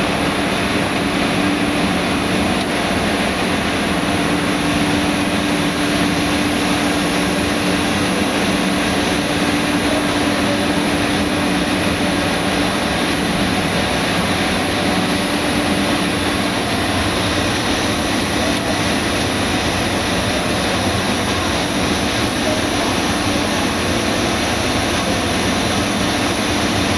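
Steady, loud machinery noise: a constant rushing with a steady hum underneath that weakens about halfway through.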